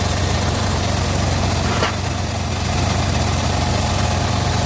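Sawmill band saw running steadily, with a low motor hum and a constant hiss. There is a brief click about two seconds in.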